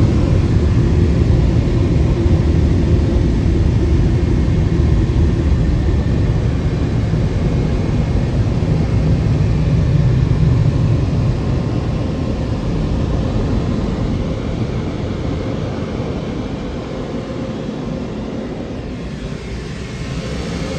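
Automatic car wash tunnel equipment running with a loud, steady rushing noise, heavy in the low end. It eases off gradually over the second half.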